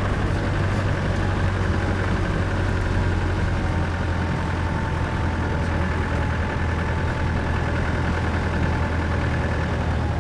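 Off-road vehicle's engine running steadily at low revs, a constant low hum heard from inside the cabin as it crawls along an unsealed lane.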